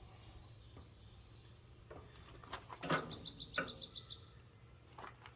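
A songbird's trill, a quick run of repeated high notes, heard twice: once early and again for about a second in the middle. A few sharp knocks come just before and during the second trill, over a low steady hum.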